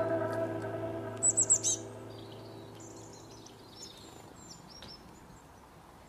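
High, quick chirps from small songbirds: a run of four or five rapid notes about a second in, then scattered fainter chirps. Soft sustained background music fades out during the first two seconds.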